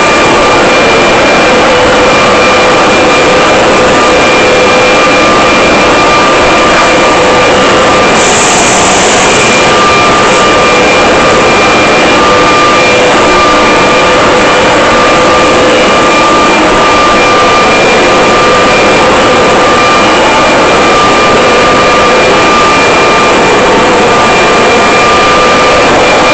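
Leaf blower running steadily at full power: a loud rush of air with a steady whine, and a brief burst of sharper hiss about eight seconds in.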